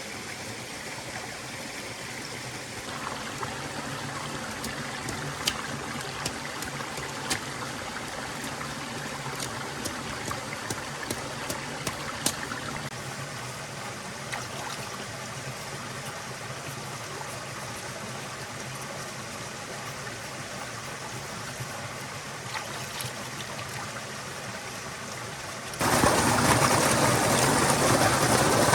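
Stream water flowing steadily, with scattered sharp clicks in the middle part. About 26 seconds in, the water sound suddenly becomes much louder.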